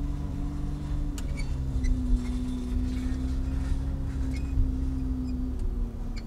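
Porsche sports car's engine running at low revs in first gear, a steady low drone that eases down slightly about a second in, with a few light ticks over it.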